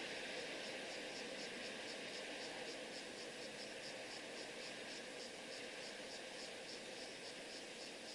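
Cricket chirping in an even rhythm, about three high-pitched pulses a second, over a steady background hiss.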